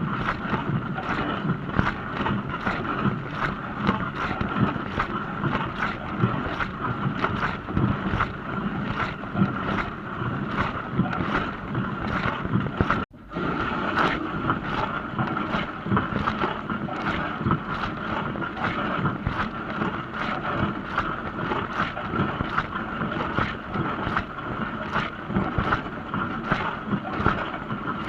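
Dishwasher running a wash, water spraying and splashing inside the tub in a steady wash of sound. The sound drops out for an instant about halfway through.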